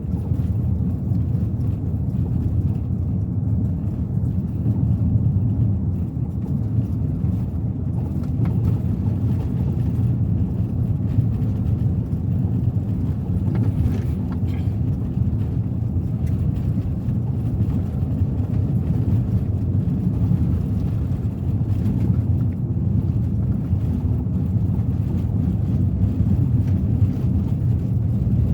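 Steady low rumble of a Suzuki Ertiga 1.4 cruising: engine drone mixed with tyre and road noise, holding an even level with no gear changes or other events standing out.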